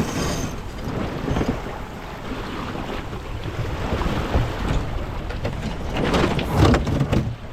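Strong wind buffeting the microphone and rough water rushing and splashing along the hull of a sailing yacht under way, with louder surges about four seconds in and again near the end.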